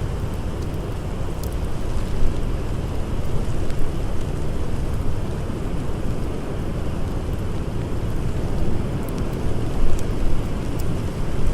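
Blizzard wind blowing hard, a dense low rushing rumble, with a few faint sharp crackles from a campfire scattered through it.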